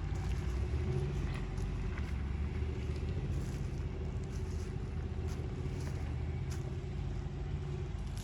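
Full-size 4x4 pickup truck's gas V8 running at low speed, a steady low rumble with occasional light ticks and rattles over it.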